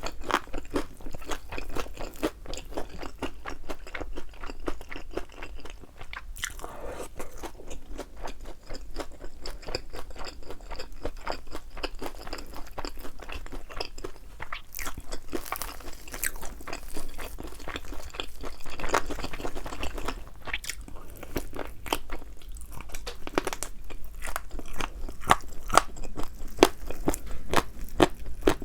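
Close-up crunching and chewing of thin, crisp-battered fried chicken wings, a steady run of quick crunches.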